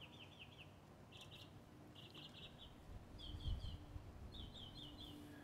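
A bird calling: short, quick runs of high chirps repeated about once a second. A brief low rumble about three and a half seconds in.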